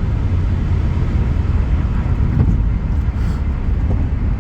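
Steady low rumble of a car's engine and tyre noise heard from inside the cabin while driving.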